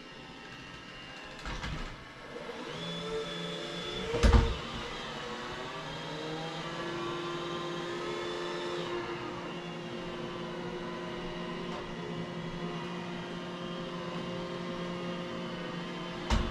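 Vacuum cleaner running with a steady motor whine that rises in pitch a few seconds in, with sharp knocks as it bumps into things, the loudest about four seconds in and another near the end.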